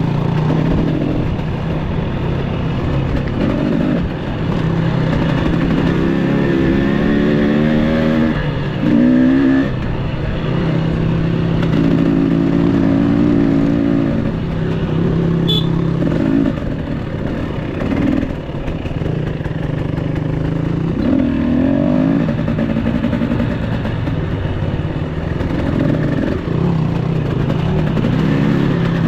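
Enduro dirt bike engine running under load on the trail, its pitch rising and falling repeatedly as the throttle opens and closes.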